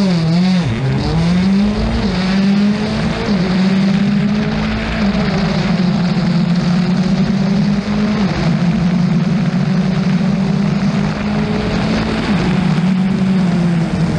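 Rally car engine running hard at high revs. Its pitch drops and climbs back several times, sharply about half a second in and again around two, five, eight and twelve seconds in.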